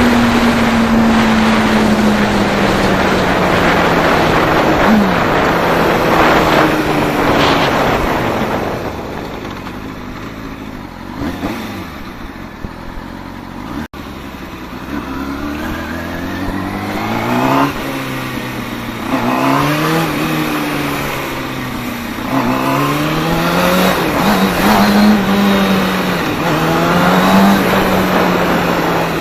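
Kawasaki Ninja sport bike's engine on the move. For the first third its pitch falls slowly as the bike slows, under a loud rush of wind. After a quieter stretch it accelerates again and again, the pitch climbing and dropping back with each upshift.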